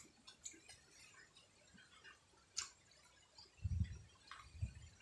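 A person eating grilled fish and rice: scattered small mouth clicks and lip smacks of chewing, with a couple of soft low thumps a little over halfway through.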